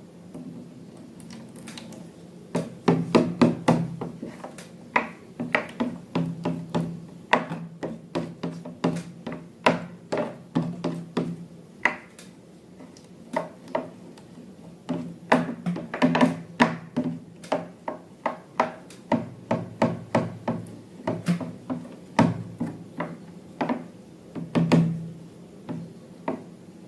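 Dozens of sharp taps and clicks at an uneven pace, like objects being knocked and handled on a tabletop, over a faint steady low hum.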